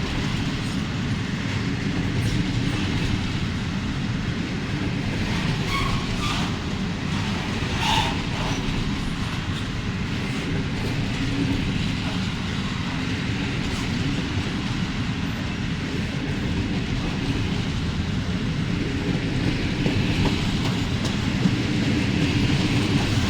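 Freight train wagons rolling past, a steady rumble of steel wheels on the rails.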